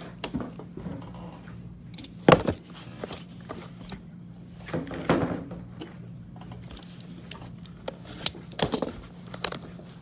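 Trading-card packaging being handled and torn open: irregular crinkling and tearing of wrapper and box, with a few sharp clicks and knocks, the loudest about two seconds in. A faint steady hum underneath.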